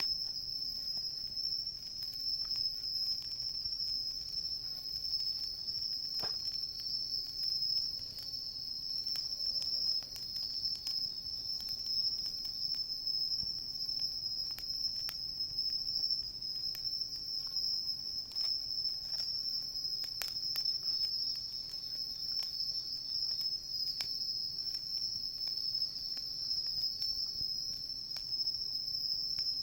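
Crickets and other autumn insects calling in a steady, unbroken high-pitched trill, with scattered small crackles from a wood campfire.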